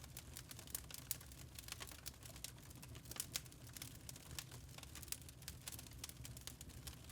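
Wood fire crackling in a fireplace: irregular sharp snaps and pops over a low rumble from the burning.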